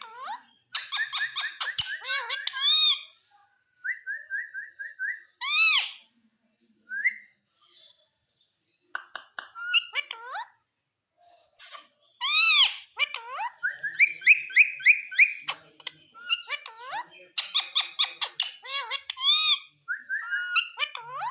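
Indian ringneck parakeet calling in bouts of rapid, sharp, high chirps and squawks, with short whistled notes between them and a pause of about two seconds near the middle.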